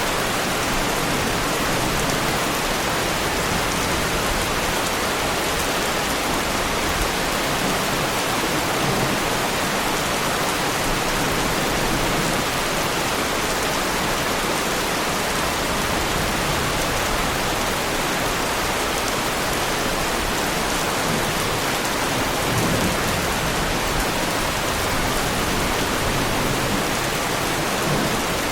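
Heavy rain falling steadily: a dense, even hiss of many drops with no pauses and no single louder strikes.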